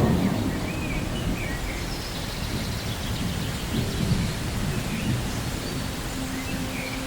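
Thunderstorm: steady rain with a low rolling rumble of thunder, loudest right at the start.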